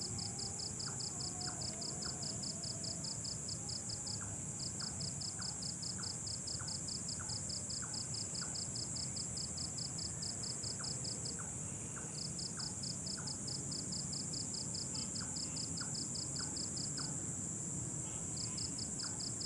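Night insect chorus: a steady high shrill, with a cricket's rapid pulsed trill running in bouts of a few seconds broken by short pauses, and a faint ticking about twice a second.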